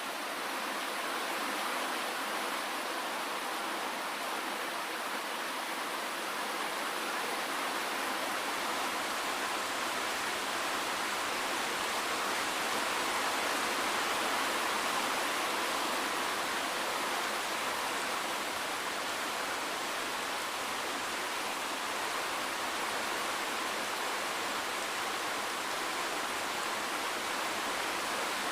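Steady rain falling, an even, dense hiss with no separate drops standing out.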